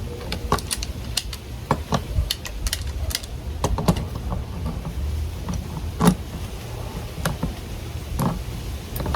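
Irregular clicks and knocks of a wrench and water pump pliers gripping and turning the plastic nuts of a PVC compression coupling as it is tightened, over a steady low hum.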